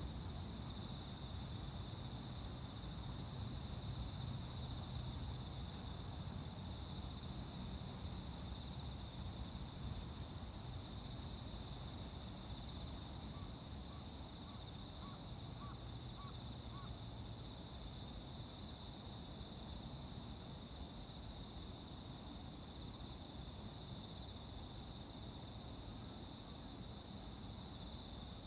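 Insects chirping in a continuous high trill, with a second insect pulsing about once a second, over a low steady rumble. A few faint quick ticks come about halfway through.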